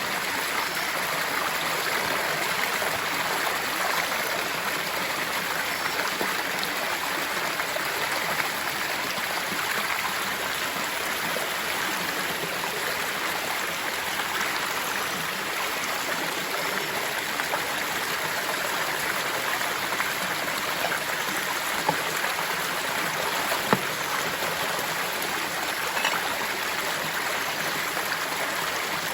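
Steady, unbroken rush of a waterfall's falling water, with a couple of short taps about two-thirds of the way through.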